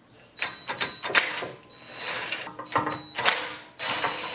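Metal clicks, scrapes and rattles of hand work on a small engine's carburetor and fuel line, with a few short ringing squeaks.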